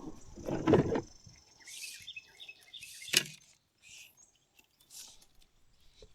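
A fishing rod cast from a boat: a loud whoosh-and-swish burst about a second in, with a thin whine from the reel. A series of short bird chirps follows, then a single sharp click just after three seconds.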